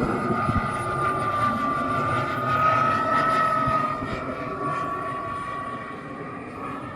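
Swiwin 170 model jet turbine of an RC F-18 whining steadily on landing approach, loudest about three seconds in, then fading with its pitch easing slightly lower.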